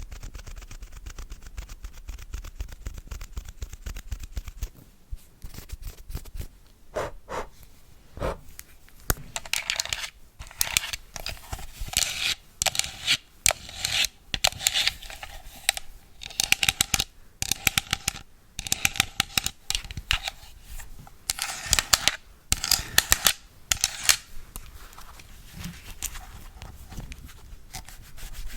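Close-miked ASMR cleaning of a phone and tablet: a string of sharp taps and clicks, with dense bursts of scratchy brushing and rubbing through the middle.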